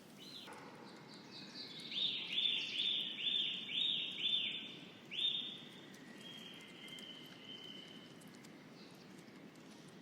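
A songbird singing a fast run of about seven repeated high, arched notes, then a softer drawn-out note, over a steady low background hiss.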